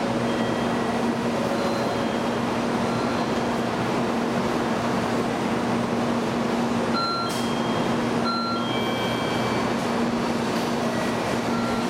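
N700 Series Shinkansen standing at a station platform, its onboard equipment running with a steady hum and a constant low tone, while its doors close ahead of departure. Short high beeps sound twice near the middle.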